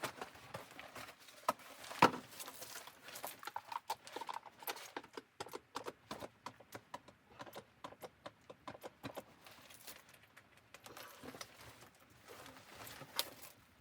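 A run of irregular knocks and clicks, denser in the middle, with one louder knock about two seconds in.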